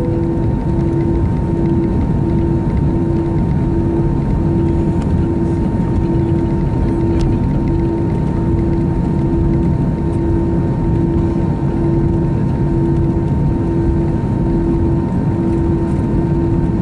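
Steady, loud cabin noise of an Airbus A321 with its engines running, with a tone pulsing on and off about once a second.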